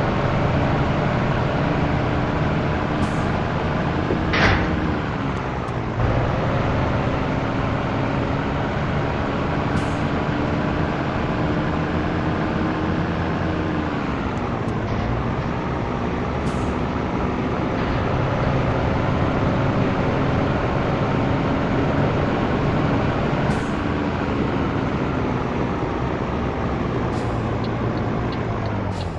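Scania truck's diesel engine pulling under way, its pitch slowly climbing and then dropping at gear changes about six and fifteen seconds in. A brief hiss comes about four seconds in.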